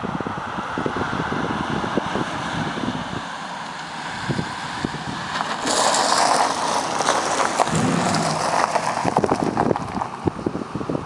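Vehicle exhaust running, fitted with a Pro Flo Max exhaust, mixed with buffeting wind noise on the microphone. The exhaust sound gets louder and brighter about six seconds in.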